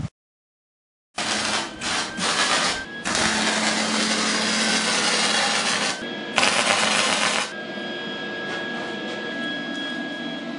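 Arc welding on a steel part at a workbench: a crackling hiss in bursts, loudest between about three and seven and a half seconds in, then quieter with a faint steady whine. It starts after a second of dead silence.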